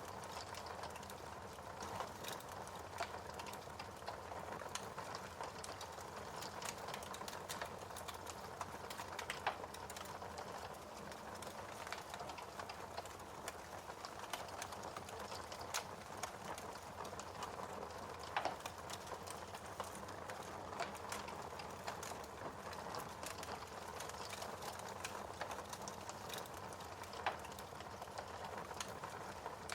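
Wood fire crackling: a steady soft hiss of burning with irregular sharp pops and snaps, a few of them louder.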